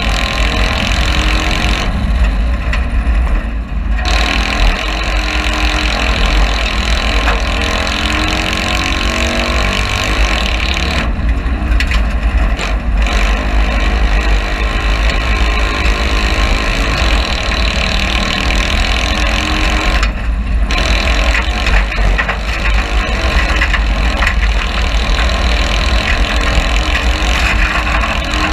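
Citroën 2CV-based race car's air-cooled flat-twin engine heard from inside the cockpit under racing load on dirt. The note rises and falls with the throttle, easing off briefly a few times.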